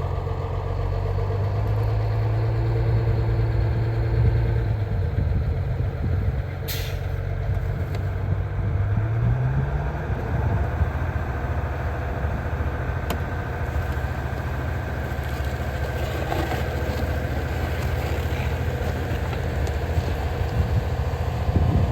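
A large vehicle's engine running steadily, its pitch rising as it revs about ten seconds in, with a brief hiss about seven seconds in.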